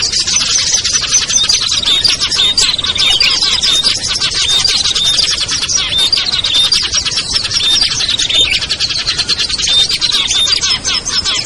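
A dense, unbroken chorus of small songbirds chirping and twittering over one another, with short falling notes repeating throughout. It is a lure recording of small birds, made to draw wild birds down.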